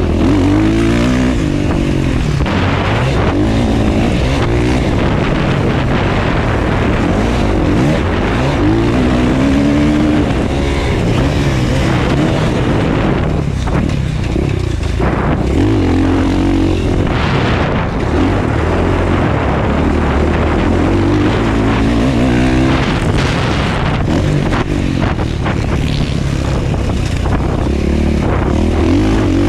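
Motocross dirt bike engine running hard, its pitch rising and falling over and over as the throttle is worked and gears change around the track, with a steady rush of wind and track noise underneath.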